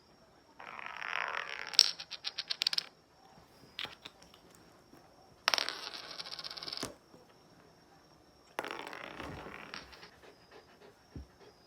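Plastic bottle caps clattering and spinning on a hard floor, three times. The first rattles down through a quick run of clicks before coming to rest.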